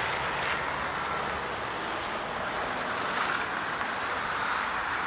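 Steady wind noise of a blizzard, an even hiss without any distinct events.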